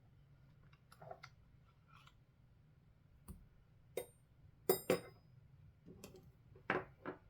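Scattered light clicks and taps of small tools and parts being handled while a radio transceiver is taken apart. The loudest are a close pair a little after the middle and another near the end.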